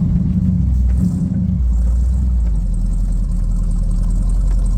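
Chevy 350 V8 in a loaded 1978 Chevrolet C30 dump truck, running steadily under load. About a second and a half in, its sound drops to a deeper, lower drone.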